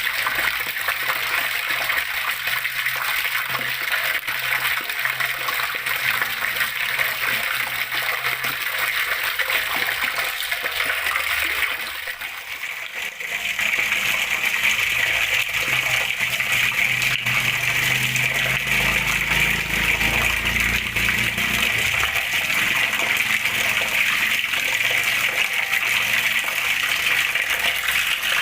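Running water flowing and splashing steadily. About halfway through it briefly drops away, then comes back fuller and brighter.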